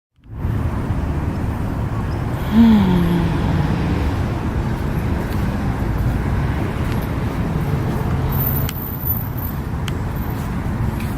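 Steady low rumble of road traffic. About two and a half seconds in, a short pitched sound glides downward.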